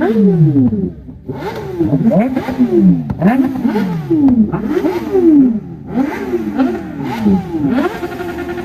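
Superbike engine with a loud exhaust being revved in repeated throttle blips, its pitch sweeping up and falling back about once a second, with a short lull about a second in.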